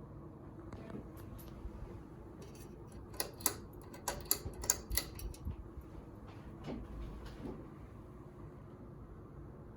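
Emerson Buckingham ceiling fan running with a steady low motor hum. Midway there is a flurry of sharp clicks and light rattles lasting about two seconds.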